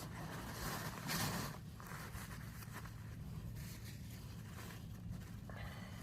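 Rustling and scraping of a sandwich being wrapped in plastic packaging, loudest in the first second or so, over a steady low hum.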